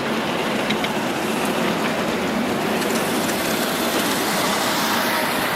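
Miniature railway train running along the track, heard from aboard: a steady rushing noise with faint clicks from the wheels.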